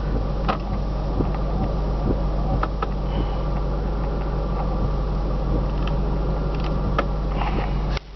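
2006 Ford Mustang GT's 4.6-litre V8 idling, heard from inside the cabin as a steady low hum, with a few light clicks.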